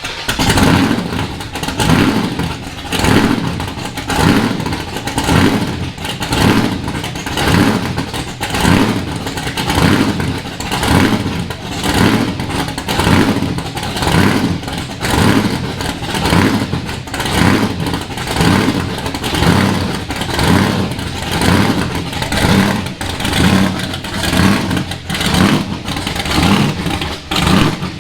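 Shelby Mustang's Boss 429 V8 on a cold start through a new exhaust: it fires up and runs loud and lumpy, swelling and dropping about once a second.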